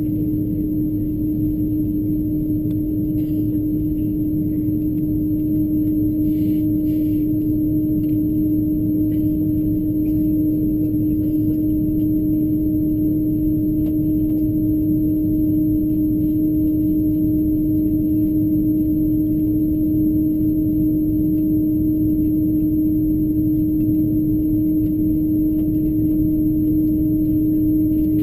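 Cabin noise of an Airbus A330-223 taxiing on the ground: a steady low rumble with a constant low hum.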